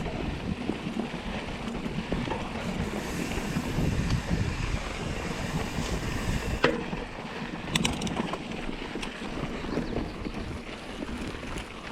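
Wind rumbling on the camera microphone while a mountain bike is ridden down a dirt trail. A sharp knock comes a little past halfway, then a quick cluster of clicks about a second later, likely the bike rattling over rough ground.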